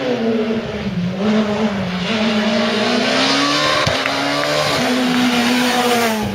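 Rally car engine under hard driving, its pitch dropping and climbing again several times as the driver lifts, shifts and gets back on the throttle.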